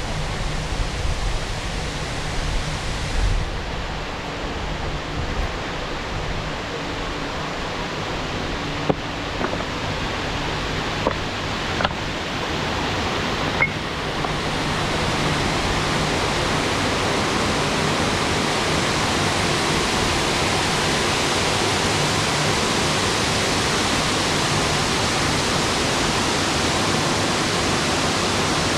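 Steady rush of running water that gets louder about halfway through, with a few faint clicks before that.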